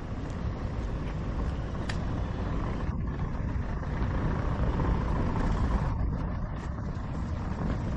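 Steady rumble of city road traffic, growing a little louder about four seconds in.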